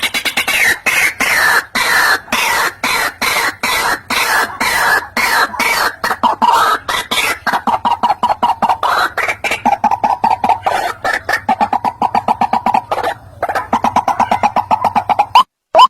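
White-breasted waterhen calls, a lure recording for bird trapping: a dense, rapid run of repeated croaking notes with calls overlapping, over a faint steady low hum. Near the end it cuts to louder single upslurred notes about one a second.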